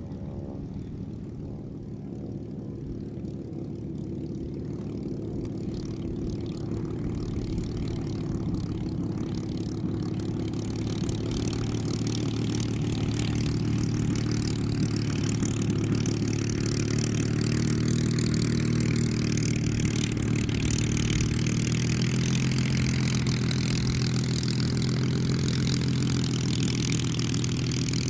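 Supermarine Spitfire Mk VIII's Rolls-Royce Merlin V12 engine running steadily, its propeller drone growing louder over the first half and then holding level.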